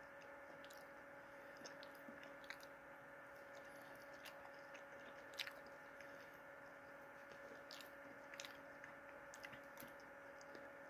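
Faint chewing of a french fry: soft, scattered mouth clicks and smacks, the loudest about halfway through, over a low steady hum.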